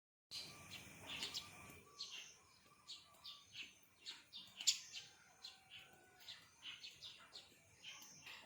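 Faint birds chirping: many short, high chirps repeating irregularly, about two or three a second.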